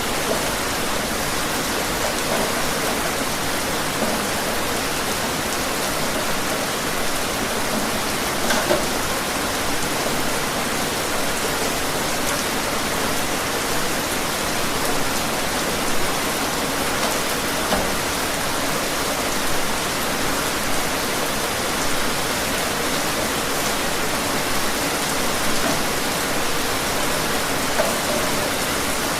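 Steady rain falling, an even hiss with occasional louder individual drops.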